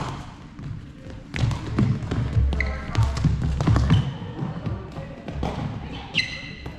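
Thuds and sharp knocks of a doubles match in play, with brief voices mixed in and a short high-pitched squeal near the end.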